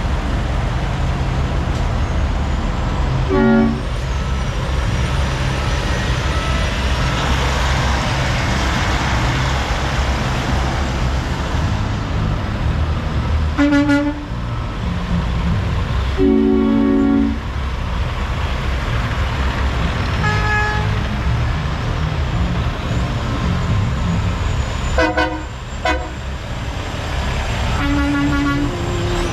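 Heavy diesel truck engine running with a steady low rumble, while a truck horn gives several short toots and one longer blast of about a second.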